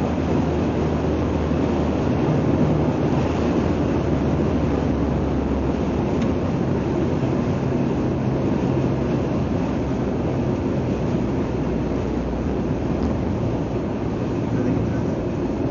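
Steady engine drone and road noise inside a moving vehicle's cab, with a low hum that drifts a little in pitch.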